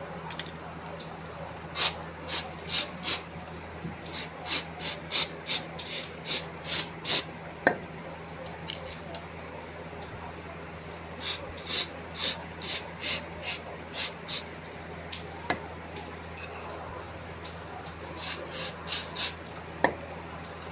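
Aerosol carburetor cleaner (Carbucryl) sprayed in short hissing bursts onto a wet remote control, in four quick runs of several squirts each, flushing off WD-40 and drying out the moisture.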